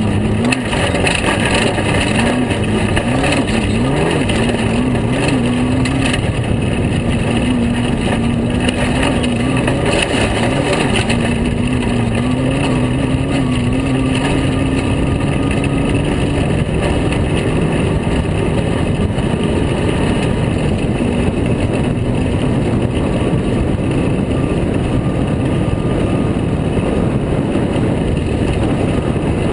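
Air-cooled VW engine of a Class 5 unlimited Baja Bug running hard at racing speed on a dirt track. Its pitch rises and falls through the first half and then holds steady, under a constant rush of wind and rough-road noise.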